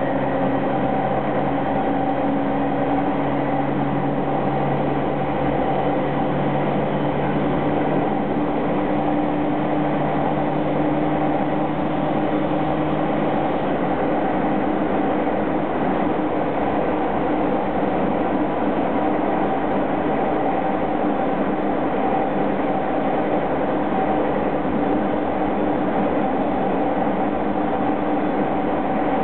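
Running noise of a JR 209 series electric train cruising, heard from inside the car: a steady rumble with several steady humming tones over it.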